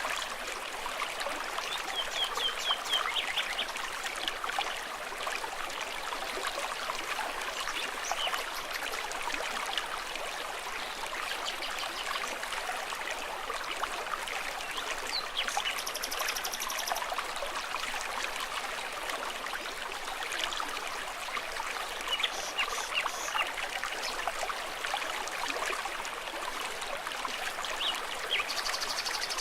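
A stream trickling and babbling steadily. Short high-pitched chirping calls come through a few times, about 3 seconds in, near the middle, and near the end.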